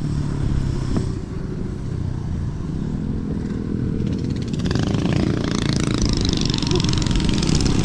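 Wind buffeting the rider's microphone, with tyre and road noise, while riding an electric scooter; it gets louder and hissier about two-thirds of the way through as the scooter speeds up.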